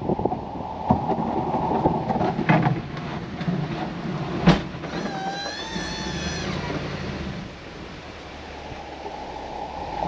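A snow-clearing machine's engine running steadily, with metal clanks and knocks. The loudest is a sharp bang about four and a half seconds in, followed by a wavering squeal lasting about a second and a half.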